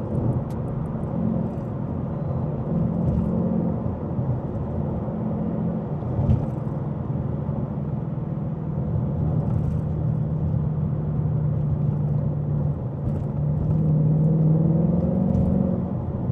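Ford Mustang GT S550's V8 engine running at a steady cruise with tyre and road noise. Near the end the engine note climbs a little and gets louder under throttle, then eases off.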